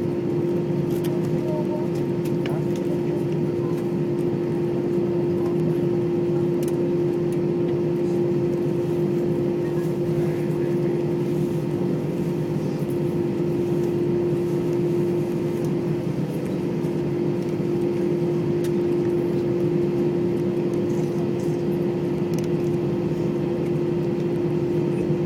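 Jet airliner cabin noise after landing: a steady rumble and hiss with a constant mid-pitched whine.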